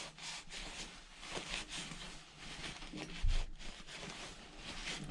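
Faint irregular scraping and rubbing of the flywheel on the Predator 212's crankshaft taper, worked with lapping compound, with a dull low thump about three seconds in.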